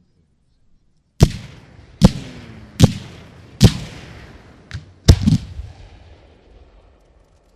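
Fireworks going off: a string of sharp bangs about a second apart, each trailing off in a rolling echo. A smaller bang comes after the fourth, and the last two come in quick succession.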